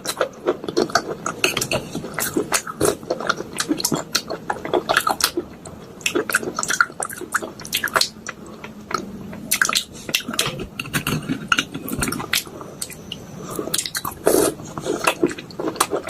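Soaked pieces of clay, white chalk and slate pencil being crushed with a spoon in a bowl: a dense, irregular run of wet crunches and cracks.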